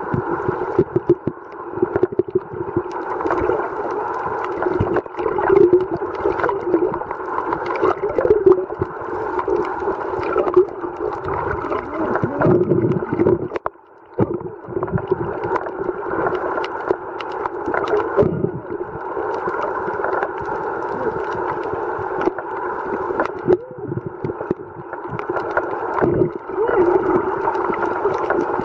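Muffled underwater sound picked up by a camera in its housing: a steady dull wash of water with many scattered crackling clicks. It drops out briefly about halfway through.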